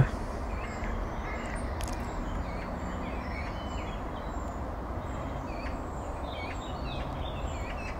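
Outdoor morning ambience: birds chirping and calling, many short scattered calls, over a steady low background rumble.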